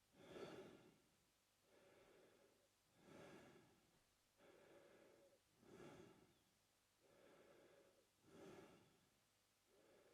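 A man breathing through his mouth, slow and even: a softer, steady breath alternating with a louder breath that swells and fades, about four full breaths in ten seconds.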